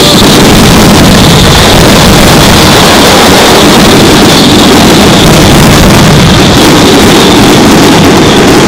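A dense barrage of fireworks shells bursting overhead, their explosions and crackle running together into one continuous loud rumble that overloads the microphone.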